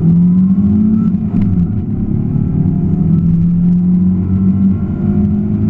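Suzuki Swift S1600 rally car's engine running hard under load, heard from inside the cabin; its note steps between a lower and a higher pitch a few times.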